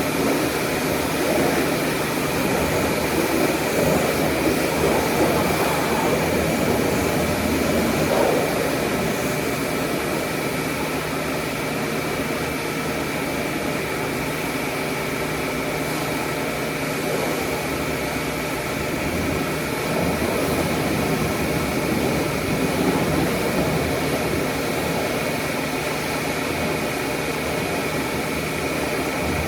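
Steady machine noise: a motor running with a constant high whine over an even hiss, changing little throughout.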